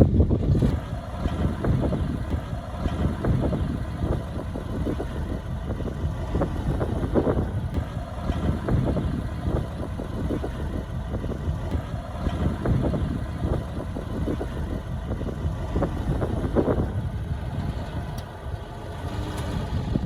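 Heavy diesel construction machinery running steadily, with frequent irregular clanks and knocks over the engine's low rumble; the engine is loudest near the start and again near the end.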